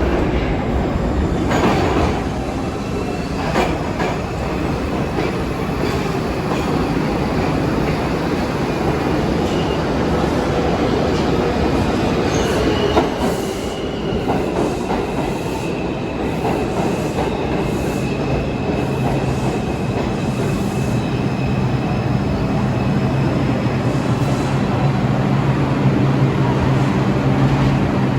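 New York City subway train running through the station: steady rumble with wheel clatter over the rail joints and scattered clicks, a thin high wheel squeal in the middle, and a steady low hum in the last third.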